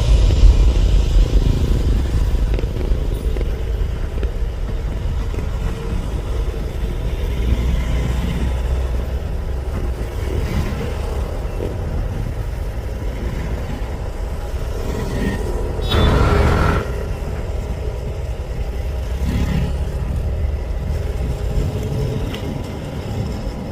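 Steady low rumble of a motor vehicle on the move, with one brief, louder rush of noise about two-thirds of the way through.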